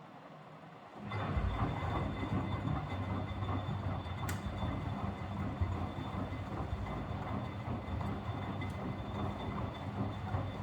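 Miele W761 washing machine's motor turning the empty drum, starting suddenly about a second in: a rumbling run with a steady motor hum. The owner describes the motor bearings as 'extravagant', that is, audibly worn.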